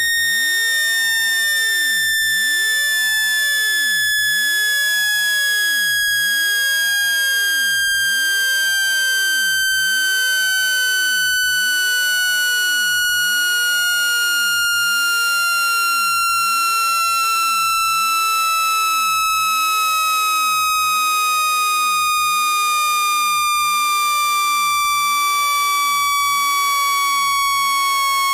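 Synthetic speaker-cleaning tone, a loud, continuous electronic tone that slides slowly and steadily lower in pitch. It is played through a phone speaker to vibrate water droplets and dust out of it.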